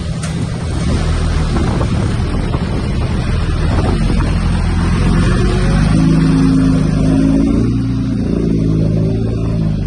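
Diesel engine of heavy earthmoving machinery running hard under load. Its note rises about halfway through and shifts again near the end.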